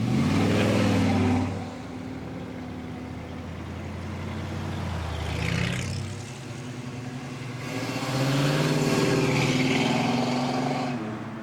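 Car engines revving and accelerating away with loud exhaust: a rising rev right at the start, a lower steady engine note through the middle, and a second loud acceleration from about eight seconds in.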